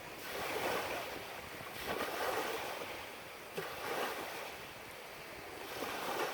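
Small waves lapping on a beach, a soft wash of surf that swells and fades about every two seconds.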